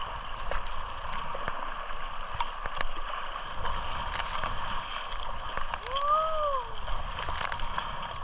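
Water sloshing and splashing around a paddled kayak, with scattered sharp knocks. About six seconds in there is one brief call that rises and then falls in pitch.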